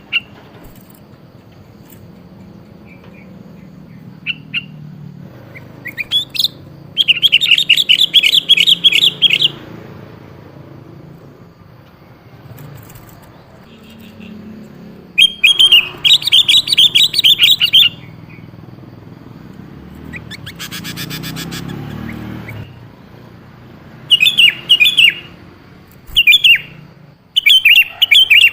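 Sooty-headed bulbul calls used as a lure: several loud bursts of rapid, chattering high notes, each a second or two long, separated by short gaps, with a few single chirps between them. About two-thirds of the way through, a fainter, evenly pulsed buzzy trill sounds for about two seconds.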